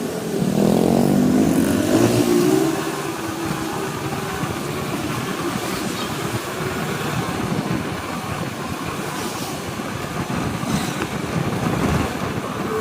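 Motorcycle engine accelerating, its note rising loudly over the first couple of seconds, then settling into a steady ride with road and wind noise.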